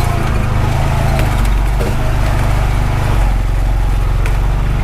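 Honda Pioneer 520 side-by-side's engine running steadily under way on a rough dirt road, with scattered knocks and rattles as it bounces over the ruts.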